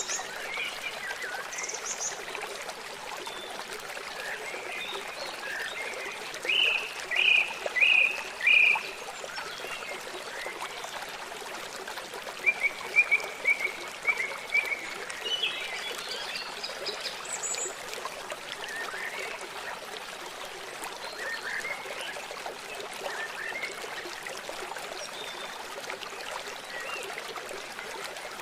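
Birds calling in short chirps and quick runs of repeated notes over a steady hiss of running water.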